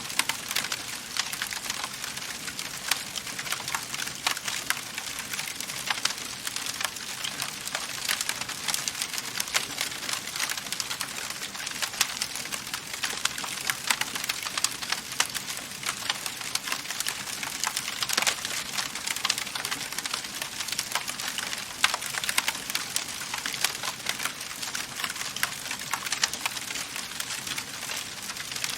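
Wood fire crackling in a fireplace: a dense, irregular run of small snaps and pops over a steady hiss, with a few louder pops now and then.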